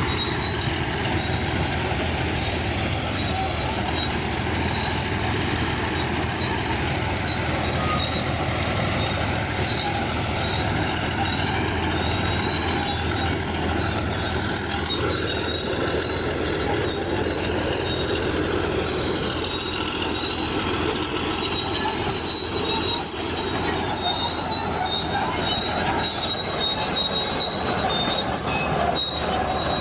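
Crawler bulldozer working, its diesel engine running steadily under a thin high squeal and scattered clanks from the steel tracks.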